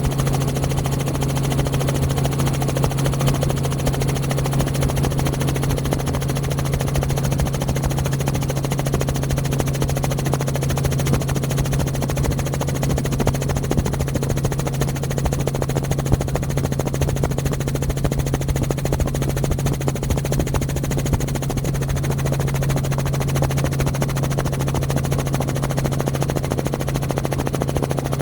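Helicopter running steadily: a constant low hum with a fast, even chop that does not let up.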